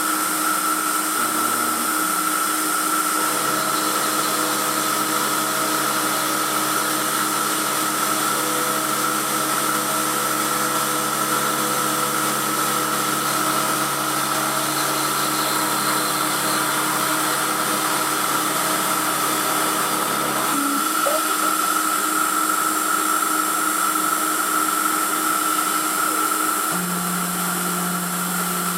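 Emco F1 CNC milling machine running with a 6 mm ball nose cutter, cutting a cast aluminium engine pan. There is a steady high whine, and lower drive tones step to new pitches as the axis moves change, notably about 20 seconds in and again near the end.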